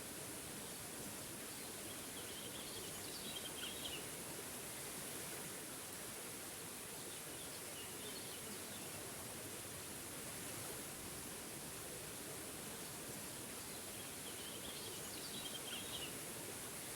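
A small waterfall rushing steadily, with a bird chirping in short phrases a few times, clearest near the start and near the end.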